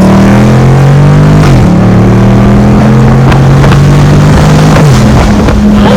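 2019 Dodge Charger Scat Pack's 392 (6.4-litre) HEMI V8 running loud through an exhaust with the mid mufflers and resonator deleted. It gives a steady drone whose pitch steps down about one and a half seconds in and again near five seconds.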